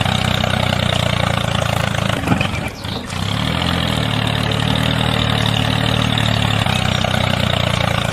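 Tractor engine running steadily, with a short dip and a change in pitch about two to three seconds in.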